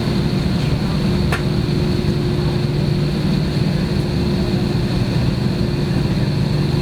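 Jet engines of an Airbus airliner running steadily, heard inside the passenger cabin as a constant hum with a low rumble and a high whine, while the plane is on the ground before takeoff. A faint click sounds about a second and a half in.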